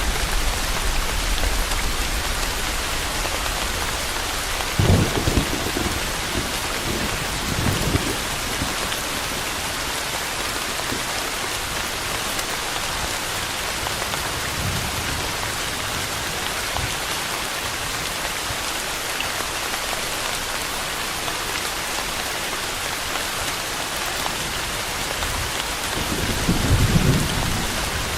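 Steady heavy rain falling, an even hiss of drops, with a few brief low rumbles of thunder: about five seconds in, again about three seconds later, and a longer one near the end.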